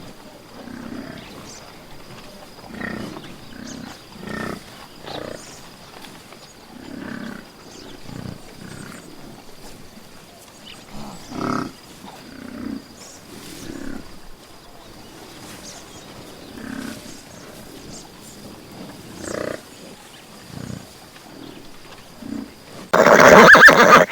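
A big cat giving a long series of short, low calls, one every second or so, some louder than others. About a second before the end, a much louder horse whinny cuts in.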